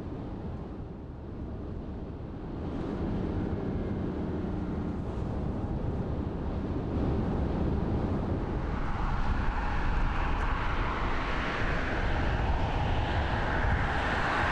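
A car on the move, a steady rush of road and wind noise that grows louder through the second half.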